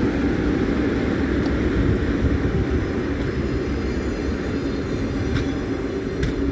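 Passenger train behind a ChS7 electric locomotive pulling out of a station: a steady low rumble with a hum, fading slightly, and a few light clicks in the second half.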